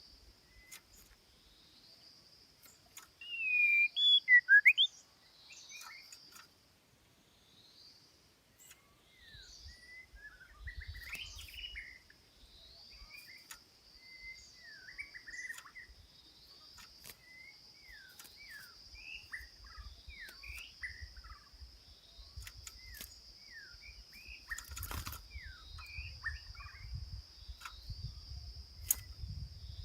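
A songbird chirping and calling in a long run of short, quick notes, loudest in a burst about four seconds in. A steady high-pitched buzz runs underneath.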